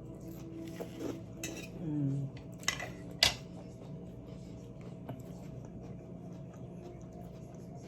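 Cutlery clinking against a plate as a piece of salmon is cut and picked up: a few sharp clicks, the loudest a little over three seconds in.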